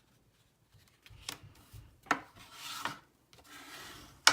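Bone folder rubbed firmly over thick white cardstock to burnish it, a dry scraping rub in short strokes broken by light taps of paper and tools on the table. A sharp tap near the end is the loudest sound.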